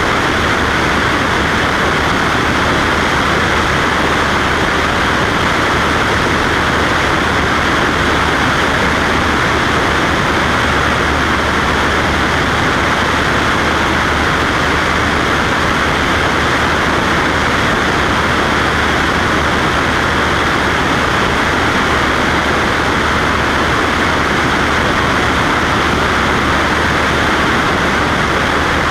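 Steady drone of a Cessna Skywagon's piston engine and propeller at constant power, loud and unchanging.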